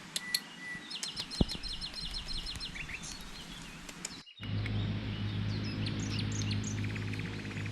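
Wild birds chirping, with a quick run of repeated high chirps and a single knock. About four seconds in the sound cuts out briefly, then a steady low hum comes in under more birdsong and a fast trill.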